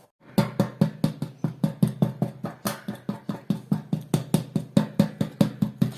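Rapid, even knife chopping on a cutting board, about seven strokes a second.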